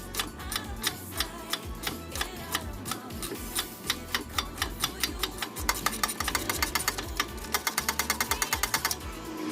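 Hand ratchet wrench clicking, first in short irregular strokes, then spun fast in a quick even run of clicks, about ten a second, for the last few seconds.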